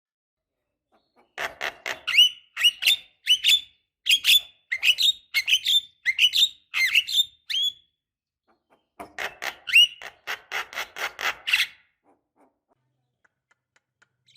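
Javan myna calling: rapid series of harsh chattering notes mixed with short rising whistles, in two bouts, the first starting about a second and a half in, the second about nine seconds in and ending near twelve seconds.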